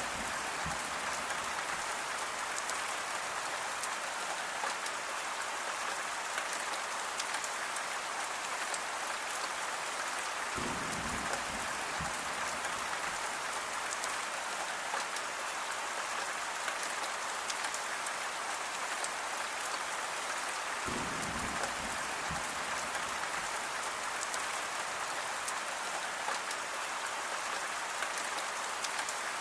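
Steady rain falling on a surface, with a dense patter of individual drops. A brief low rumble comes twice, about ten seconds in and again about twenty-one seconds in.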